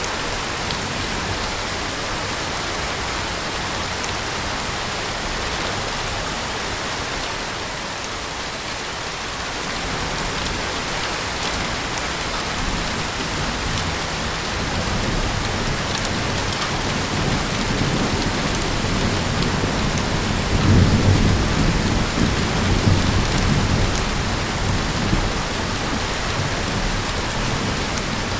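Heavy rain falling steadily, with a long low rumble of distant thunder that builds from about a third of the way in, is loudest about three quarters through, then dies away.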